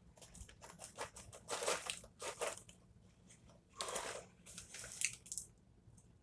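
Popcorn crunching, in irregular bursts of crisp crackling that come thickest in the first half.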